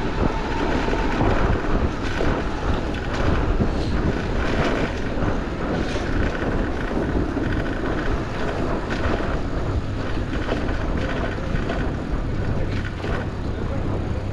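Wind rushing over the microphone of a moving bicycle, over steady city traffic noise.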